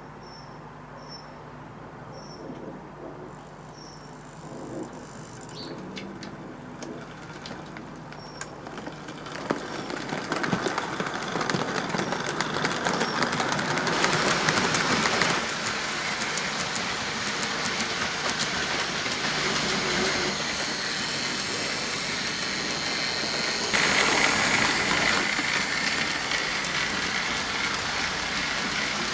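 OO gauge model train running on the layout's track: the electric motor's whirr and the wheels clicking over the rail joints. It is faint at first, grows much louder about a third of the way in as the train comes close, and swells again near the end.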